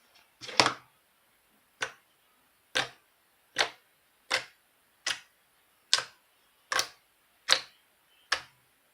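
A series of about ten sharp taps or clicks, roughly one every 0.8 seconds at a fairly even pace, the first, about half a second in, the loudest.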